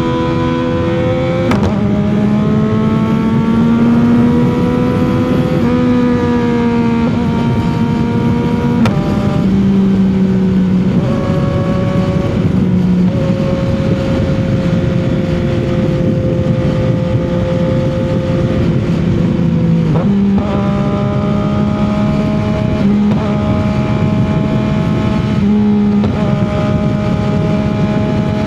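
CFMOTO 675 sport bike's three-cylinder engine running at a steady cruise on the highway, with a constant rush of noise beneath it. The engine note holds steady for long stretches and steps abruptly in pitch a few times.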